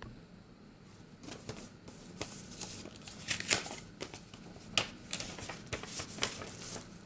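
A small wrapped package being torn open and unwrapped by hand: irregular crinkling and tearing of the wrapping, starting about a second in.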